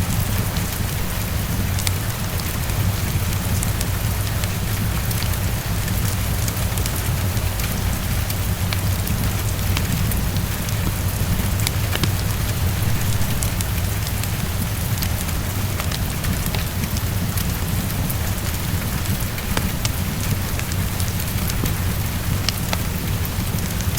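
Heavy rain pattering steadily against a window, with a constant low rumble underneath and scattered sharp ticks.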